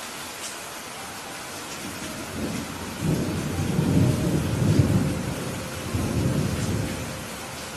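Rolling thunder over steady rain: a low rumble builds about two seconds in, peaks in the middle, swells once more and dies away near the end, while the rain hiss runs on evenly.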